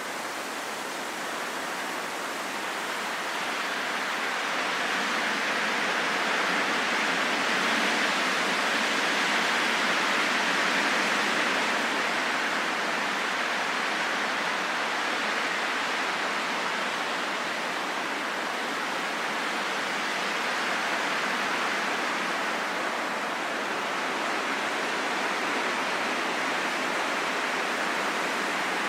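Steady wind blowing, an even rushing hiss with no gusty low rumble, swelling slowly over the first several seconds and then holding level.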